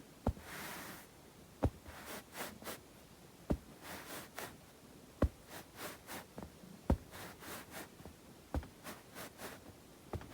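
Hands rubbing and rustling, with a brief swish of the palms in the first second and many short crackles. Sharp finger taps land roughly every second and a half.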